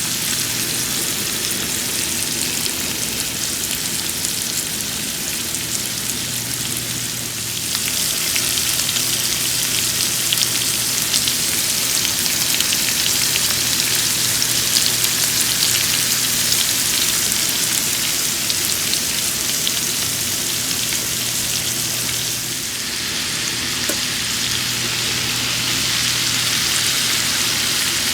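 Andouille sausage, onions, peppers and mushrooms sizzling in hot olive oil in a skillet, a steady frying hiss. The sizzle grows louder about eight seconds in, dips briefly a little past twenty seconds, then picks up again.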